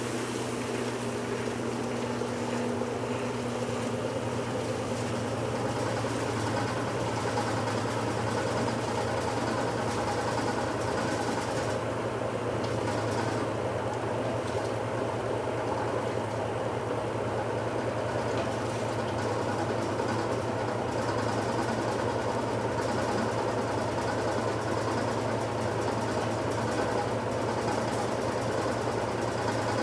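1969 Westinghouse LAJ535A3 washing machine running mid-cycle: a steady motor hum over an even rushing mechanical noise, unchanging in level.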